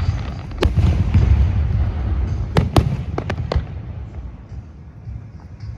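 Aerial fireworks bursting: a string of sharp bangs over a continuous low rumble, with a quick cluster of cracks about three seconds in, then the rumble dying down near the end.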